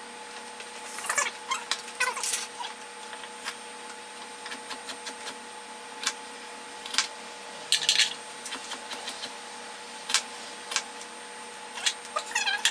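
Scattered clicks, knocks and short scraping sounds of things being handled in a kitchen, over a steady faint hum.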